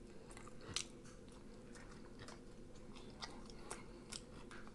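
Quiet chewing of rotisserie chicken: faint, scattered wet mouth clicks, one louder just under a second in, over a low steady room hum.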